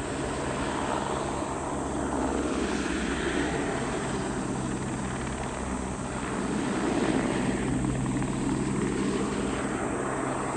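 Crop-spraying helicopter running steadily, its engine and rotor a continuous mechanical drone with low steady tones, growing a little louder about seven seconds in.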